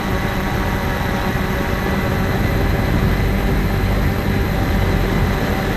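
Cheerson CX-20 quadcopter's motors and propellers whining steadily as it descends, with wind rumbling on the microphone.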